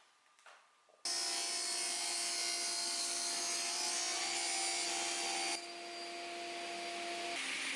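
Electric power tool running steadily against wood, a motor hum under a strong rasping hiss. It starts abruptly about a second in and changes character suddenly twice.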